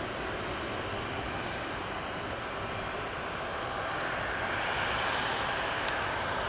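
Boeing 777-300ER's GE90 jet engines running steadily, a broad rushing noise that swells slightly about four seconds in.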